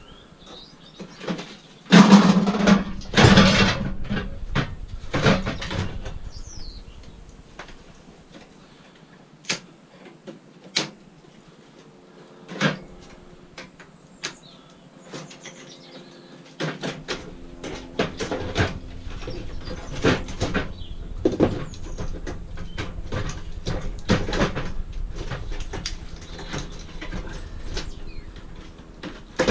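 Scrap metal being taken apart by hand: scattered clanks, knocks and clicks of tools and metal parts, with a loud rattling clatter about two seconds in. From about halfway a steady low hum runs underneath the knocks.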